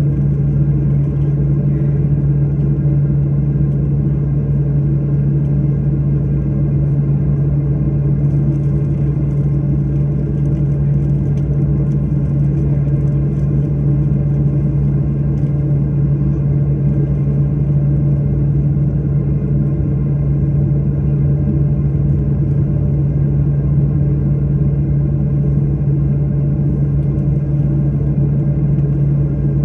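Airliner cabin drone: engines and air systems running with a strong, steady low hum that holds at one level throughout.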